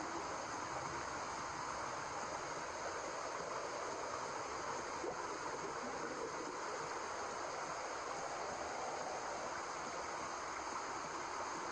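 Steady white noise played as a baby's sleep sound: an even, rushing hiss much like running water.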